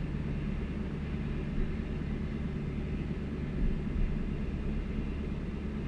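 Truck engine idling steadily in freezing weather, warming up after a cold start.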